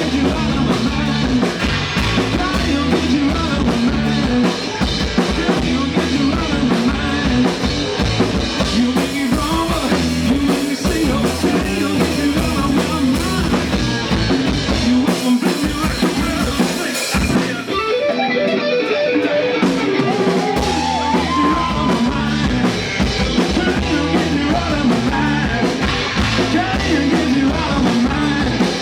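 Rock band playing live: drum kit, bass and electric guitar in an instrumental passage. Past the middle the bass and kick drum drop out for a few seconds, then the full band comes back in.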